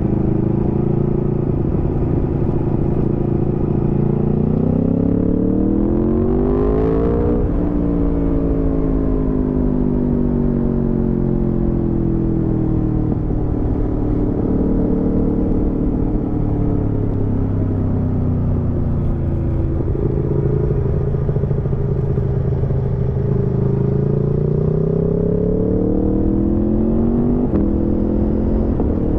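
Aprilia Tuono V4's V4 engine under way, heard from the rider's seat over a steady rush of wind. Its pitch climbs for about three seconds, then falls away gradually and holds fairly level; it climbs again later and drops suddenly near the end.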